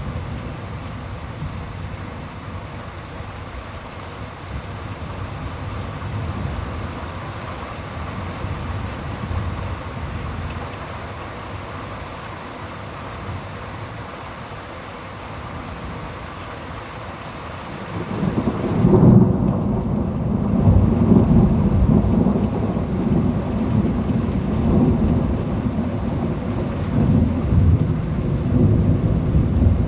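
Steady rain falling during a thunderstorm. About two-thirds of the way through, a loud, deep rolling rumble of thunder breaks in and keeps rumbling to the end.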